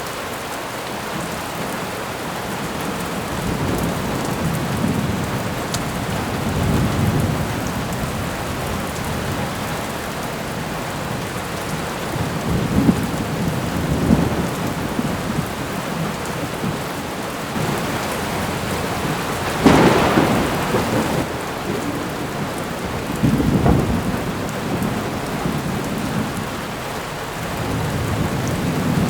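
Thunderstorm recording: steady rain with thunder rumbling several times, the sharpest and loudest clap about two-thirds of the way through.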